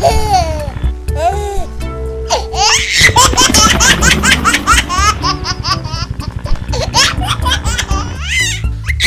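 High-pitched child laughter and giggles, many short rising and falling bursts, over background music.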